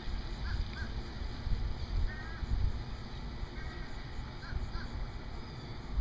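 A few brief bird calls, some in quick pairs, over a steady low outdoor rumble.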